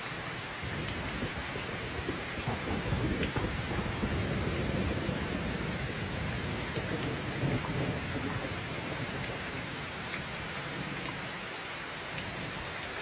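Steady heavy rain hissing, with a low rumble of thunder that rolls in about a second in, swells through the middle and fades near the end.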